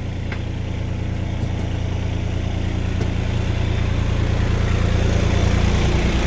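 Engine of a park maintenance machine running steadily, a low drone that grows gradually louder as it comes closer.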